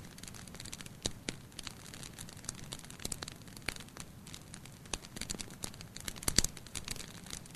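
Wood fire burning in a fireplace, crackling with irregular sharp pops over a low steady rumble of flames; the loudest pop comes about six and a half seconds in.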